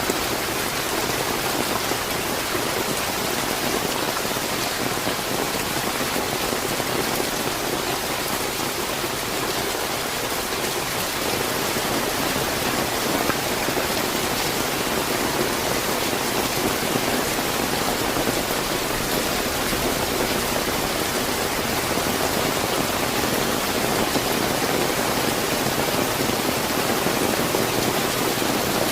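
Steady, fairly heavy rain falling and pattering on surfaces, an even hiss without pauses.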